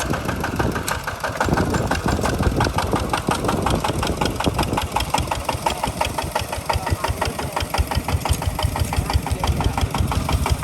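Two-wheel walking tractor's engine running steadily with a rapid, even chugging beat.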